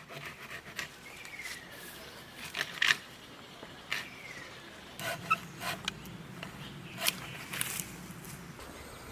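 Morning birdsong outdoors: two slow falling whistled calls and a few short chirps, with scattered sharp clicks and knocks over a faint low hum.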